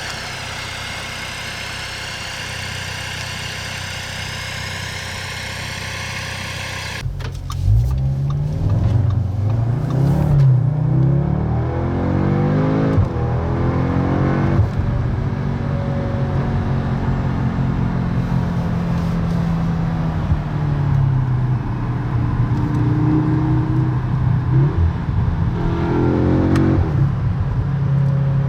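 Audi S3's turbocharged 2.0-litre four-cylinder with Akrapovic exhaust, first running steadily near idle. About seven seconds in it pulls away, revs rising and dropping back through several quick upshifts, then settles into steadier running with one more rise near the end.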